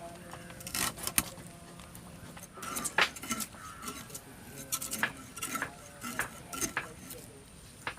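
Clatter of dishes and utensils: several sharp clinks and knocks at uneven intervals, the loudest about three seconds in.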